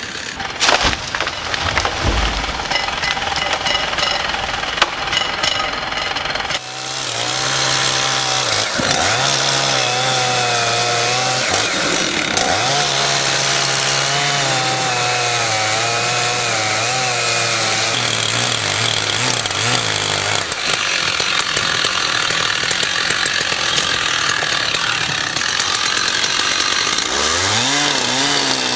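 Chainsaw cutting wood. After an abrupt change about six and a half seconds in, the saw engine runs steadily with its pitch wavering and dipping under load. It revs up near the end.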